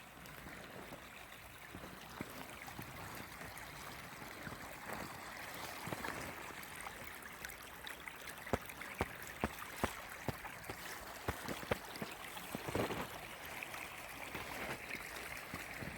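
Shallow creek babbling steadily over rocks and ice, swelling slightly near the end. A run of sharp clicks sounds over it between about eight and twelve seconds in.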